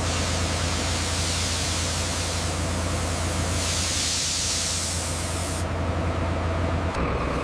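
Heavy machinery running steadily: a low engine hum under a loud, even hiss. The hiss brightens about four seconds in and thins out near the end.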